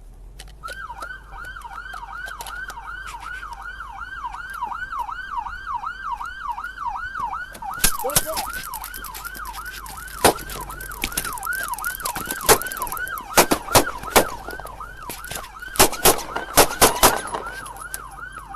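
Police car siren in a fast yelp, rising and falling about three times a second. From about eight seconds in it is broken by about a dozen loud, irregular gunshots, bunched near the end.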